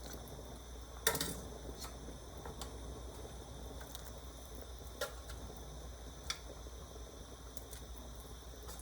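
Faint kitchen cookware knocks: one sharp clank about a second in and two lighter clicks later, over a steady low hum.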